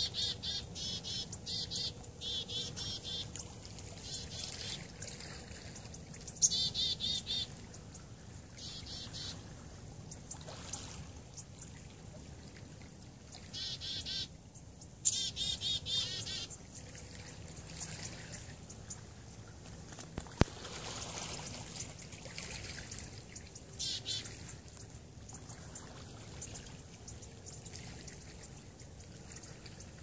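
Small birds chirping in a shrub: clusters of quick, high, repeated chirps come and go, busiest in the opening seconds, around six seconds in and again around fifteen seconds. A single sharp click sounds about twenty seconds in.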